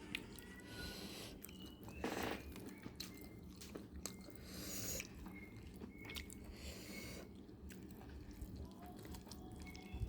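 Close-up chewing and crunching of fried fish, in irregular bursts with small clicks, the loudest about two seconds in, over a steady low hum.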